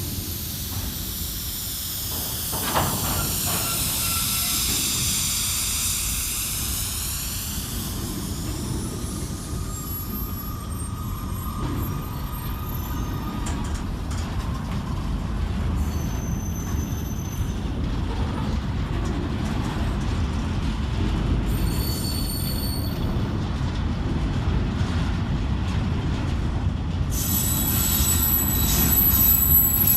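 Freight train hauled by a Class 66 diesel locomotive rolling through the station with a steady low rumble. High-pitched wheel squeals come and go, loudest near the end.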